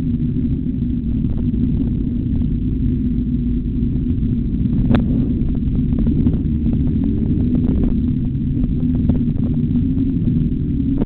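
Motorcycle engine running hard, its pitch rising and falling with throttle, over a dense low rushing noise. There is one sharp click about five seconds in.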